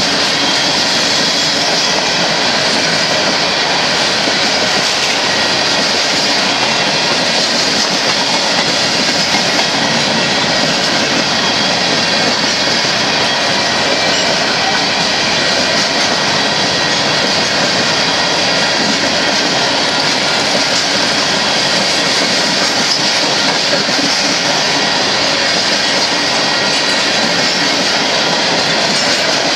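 Union Pacific hopper cars rolling past on the track: a steady, loud, continuous rumble of steel wheels on rail.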